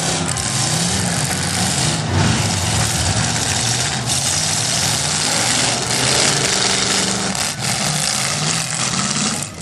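Several demolition derby cars' engines running loud and revving, their pitch rising and falling over a constant rough noise.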